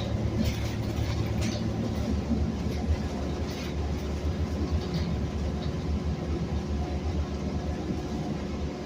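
City bus in motion: a steady low engine and road rumble, with a few short rattles in the first few seconds.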